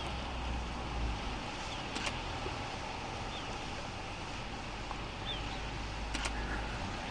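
Steady wind and sea noise with a low rumble on the microphone. A few faint, short high chirps come through it, and two brief sharp clicks sound about two seconds and about six seconds in.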